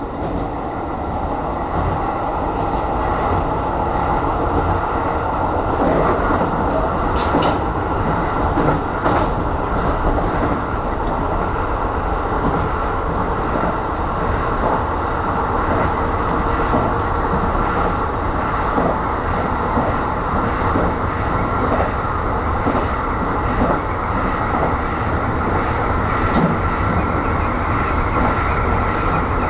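Aonami Line 1000-series electric train running along the line, heard from inside the front car. There is steady running noise with a constant whine and scattered clicks of the wheels over rail joints.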